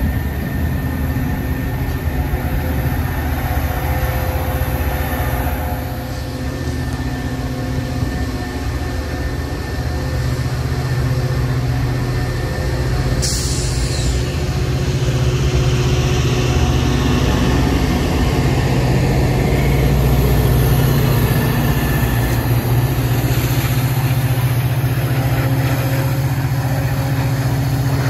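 Metra bi-level commuter train running past, its diesel locomotive's engine humming steadily under the rolling of the cars, getting a little louder in the second half. A brief hiss about halfway through.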